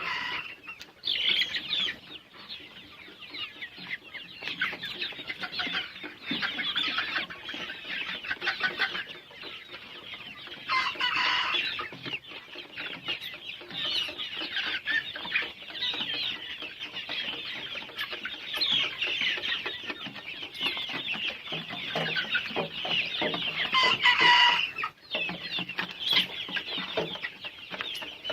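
A flock of young Golden Misri chickens, about 65 days old, clucking and calling together without a break. A few louder calls stand out above the chatter: about a second in, around eleven seconds, and near twenty-four seconds.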